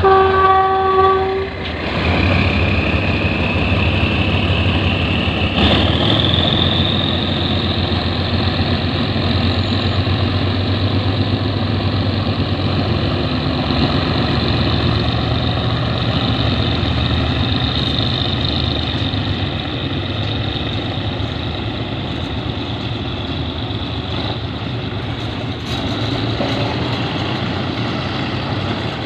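A short horn blast from the State Railway of Thailand's GE diesel-electric locomotive 4048. It is followed by the locomotive running with a whine that rises for a few seconds and then holds. Its train of oil tank wagons rolls past on the rails.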